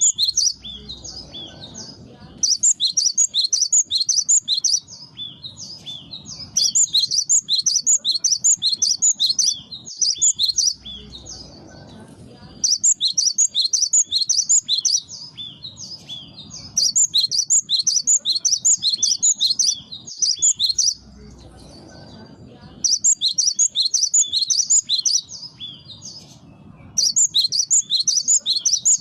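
Cinereous tit (gelatik batu) calling: rapid runs of high, sharp notes in bursts of about two seconds with short pauses between, over and over, as a lure call for attracting wild birds.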